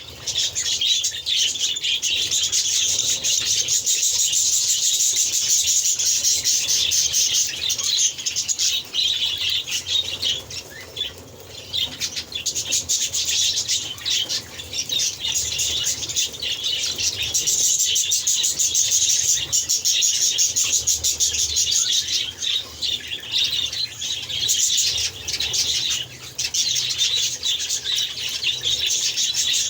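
A flock of birds chattering, a dense, unbroken mass of rapid high chirps, with a brief lull about eleven seconds in.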